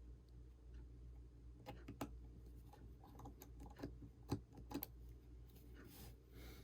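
Scattered small clicks and taps of hand tools and small phone parts being handled, about half a dozen in all, the sharpest a little past the middle, over a steady low hum.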